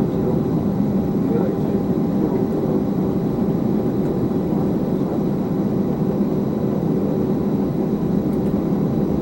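Steady rumble inside an Airbus A320 while it taxis, from its engines and airflow, with a faint steady high tone over it.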